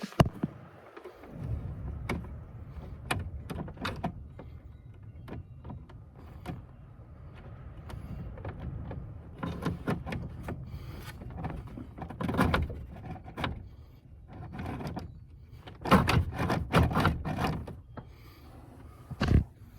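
Scattered clicks, knocks and scraping from a manual choke cable and its fittings being worked by hand, with a quick run of sharp clicks near the end. The cable has just broken and will not stay in.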